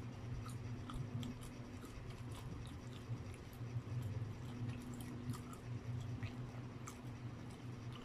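Close-miked chewing of spaghetti and Spam, with small wet mouth clicks scattered throughout. A steady low hum runs underneath.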